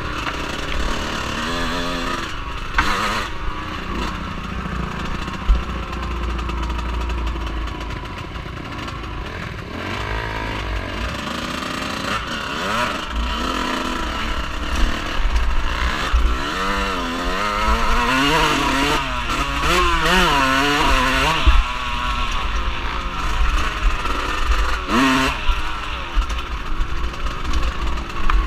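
Off-road vehicle engine running and revving, its pitch repeatedly rising and falling, over a heavy low rumble.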